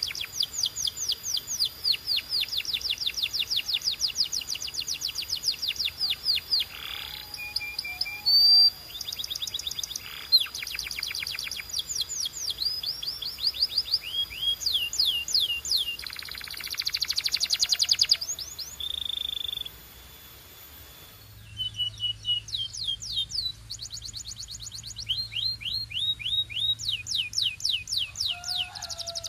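Domestic canary singing: rapid trills of repeated sweeping notes in phrase after phrase, with a brief pause about twenty seconds in.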